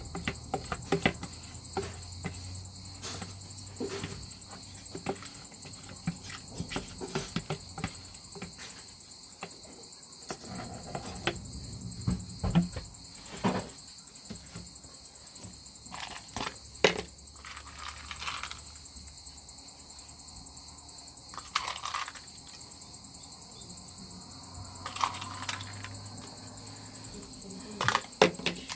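Kitchen utensils and dishes clicking and clinking irregularly during cooking, with a few louder knocks, over a steady high chirring of crickets.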